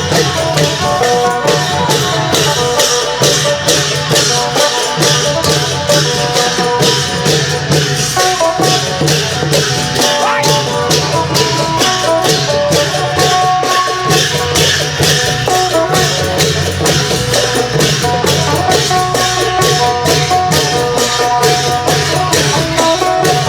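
Isan klong yao ensemble playing: long drums and small cymbals keep a fast steady beat under a phin (Isan lute) melody.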